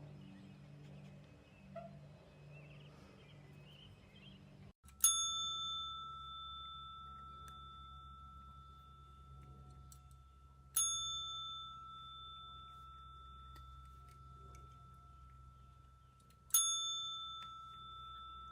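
A small metal bell struck three times, about six seconds apart. Each strike is a sharp ding that rings on for several seconds as it fades.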